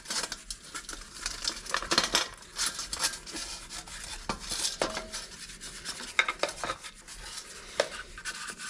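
Small metal carburetor parts clinking and scraping against each other and the basin as they are sloshed and washed in diesel fuel, with many irregular clicks.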